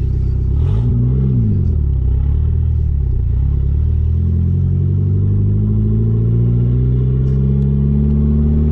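Chrysler Conquest's turbocharged Mitsubishi G54B 2.6-litre four-cylinder engine running. It makes a brief rev up and back down about a second in, then rises steadily in pitch over the last five seconds as the car accelerates.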